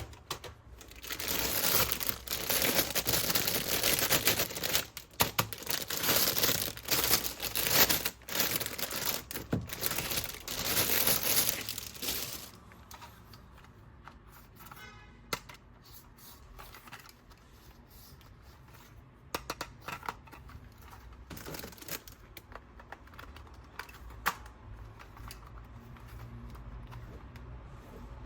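Plastic packaging crinkling and tearing as a toy is unwrapped, loud and crackly for about twelve seconds, then giving way to quieter handling with scattered small clicks.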